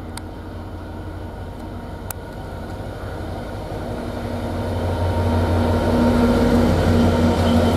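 A train approaching along the track, its rumble and steady hum growing steadily louder.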